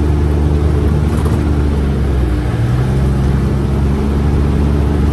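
A vehicle engine running steadily, its pitch shifting a little about halfway through.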